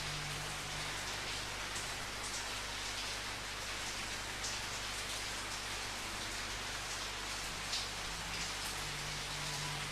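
Steady rain falling, a dense even hiss with the odd louder drop ticking through it.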